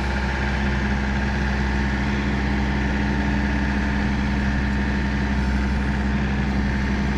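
Tractor engine running steadily, an even drone with no change in speed.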